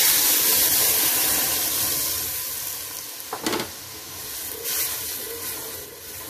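Boiled chickpeas tipped into hot oil in an aluminium pot, sizzling loudly at once and slowly dying down as they are stirred with a wooden spoon. The spoon gives a short louder rasp about three and a half seconds in and again near five seconds.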